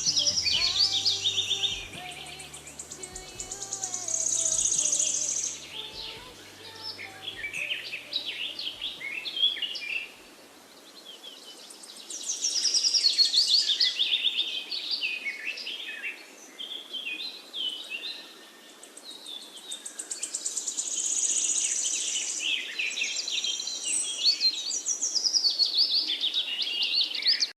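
Several songbirds chirping and trilling together, high-pitched, in loud swells that rise and fall every few seconds. Faint music fades out in the first ten seconds, and the birdsong cuts off abruptly at the end.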